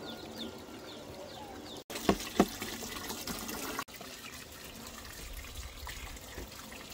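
Water running and trickling steadily, broken twice by abrupt cuts. A short middle stretch holds two sharp knocks close together.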